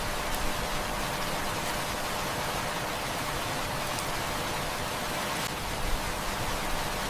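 Steady heavy rain falling, a dense even hiss, with a few faint sharp crackles of a wood fire.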